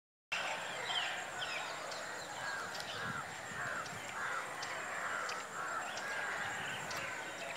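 Birds calling over a steady outdoor background, with a run of short repeated calls about two a second through the middle.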